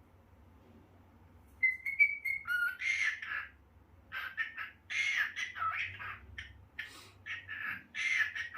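Cockatiel whistling and chattering: a short rising whistle about a second and a half in, then a run of warbling, chatter-like calls.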